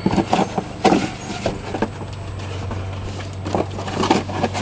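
Irregular sharp knocks and clatter of things being handled and set down, over a steady low hum that sets in about a second and a half in.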